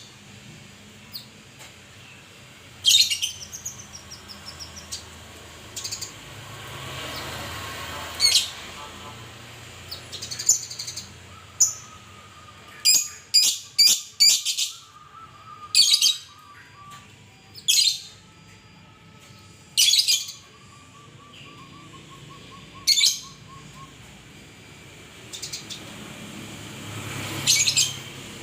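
Murai songbird singing: short, sharp, high calls repeated every second or two, with a quick run of them about halfway through, over a fainter rapid trill.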